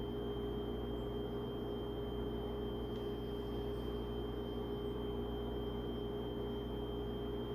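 A steady low hum with a few sustained tones that hold the same pitch, with no breaks or strokes.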